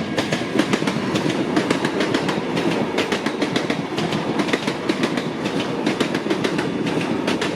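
Comeng electric suburban train running past, its wheels clattering rapidly over the rail joints over a steady rumble.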